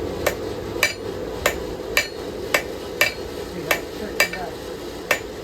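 A hand hammer striking a hot steel knife blade on an anvil, about nine steady blows roughly every half second, each with a short metallic ring, drawing out and evening the bevel. A steady low hum runs underneath.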